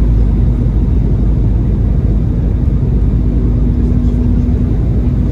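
Steady low rumble of an Embraer 195 airliner heard from inside the cabin, its two turbofan engines and airflow running, with a faint steady hum over it.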